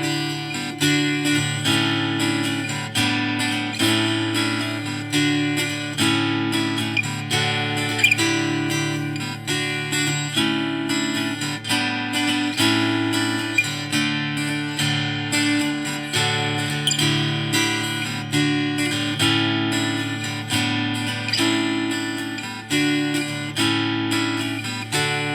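Intro music: an acoustic guitar strumming a steady rhythm.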